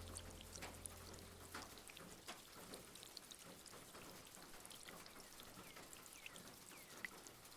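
Background jazz fades out within the first two seconds, leaving a faint fireplace-and-rain ambience of scattered small crackles and ticks.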